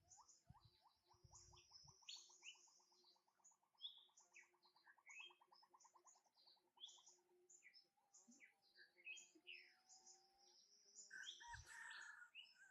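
Faint birdsong: several birds give short high chirps, while one sings a long rapid trill that speeds up and then fades after about seven seconds. A brief thump and rustle comes near the end.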